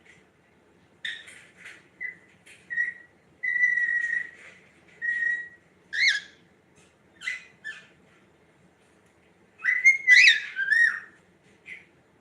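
Cockatiel whistling and chirping in a string of short calls. A longer held whistle comes about three and a half seconds in, and a louder run of rising and falling chirps comes about ten seconds in.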